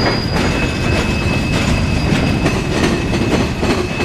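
Loaded freight train boxcars rolling past close by: a loud, steady rumble with irregular knocks and clacks of wheels over the rail joints. Over it runs a thin, steady high-pitched squeal from the wheels grinding through the curve.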